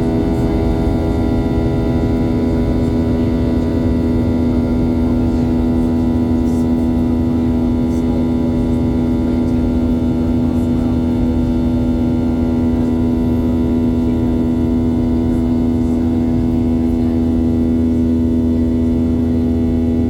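Aircraft engines droning steadily inside the cabin: a constant hum made of many steady tones.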